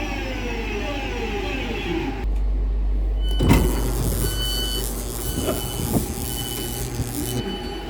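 Electric multiple-unit train pulling in, its motor whine falling in pitch as it slows. After a cut come a loud clunk and a string of short high beeps from the door warning as the doors open.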